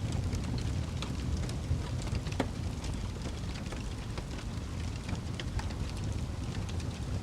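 Fire burning with a steady low roar and irregular sharp crackles and pops scattered through it.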